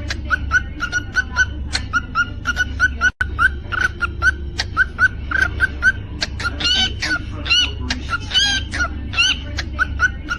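Cockatiel singing in quick runs of short, repeated chirps and whistled notes, some rising in pitch, with sharp clicks between them, over a steady low hum.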